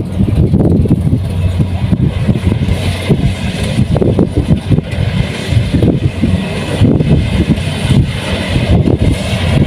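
Kubota rice combine harvester running steadily under load, its diesel engine humming low with a rough, churning clatter from the machinery.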